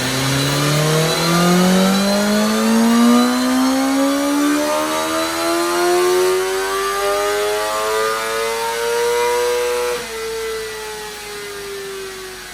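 BMW M1000R's inline-four, still on its stock exhaust, making a full-throttle dyno pull in one gear. The engine note climbs steadily for about ten seconds, then the throttle snaps shut and the revs wind down.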